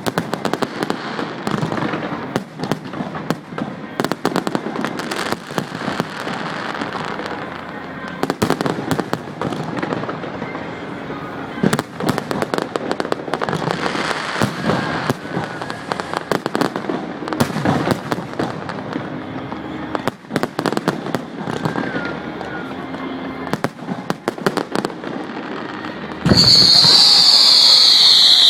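Fireworks going off in a steady run of bangs and crackling bursts, over a murmur of spectators' voices. Near the end a loud high whistle starts and slides slightly down in pitch.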